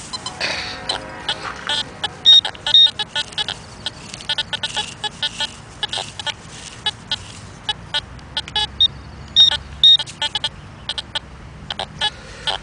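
Metal detector and pinpointer giving short, repeated high beeps over a target, mixed with clicks and scrapes of digging in the soil.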